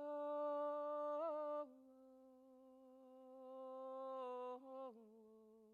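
A woman singing alone without accompaniment, the wordless opening of a lament: long held 'oh' notes that step down in pitch, the first loud, the second softer and swelling, the third lower about five seconds in.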